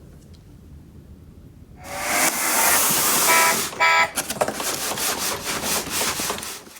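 Toy garbage truck's electronic sound gimmick: a loud hiss starts about two seconds in, with beeping tones partway through, followed by a fast clattering run of clicks.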